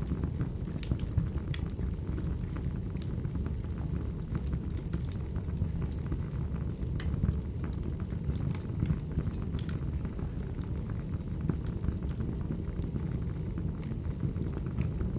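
Firewood burning: a steady low rumble of the flames with scattered sharp crackles and pops.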